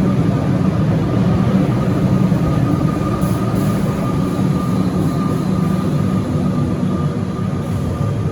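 Alstom Comeng electric suburban train running at the platform, a steady loud rumble with a faint steady high-pitched tone over it, easing slightly near the end.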